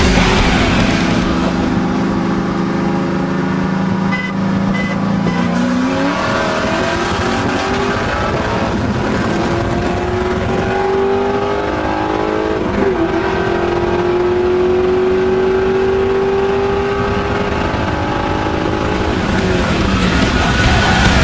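V8 muscle car engine under hard acceleration during a street race, its revs climbing steadily with a brief break for a gear change a little past halfway.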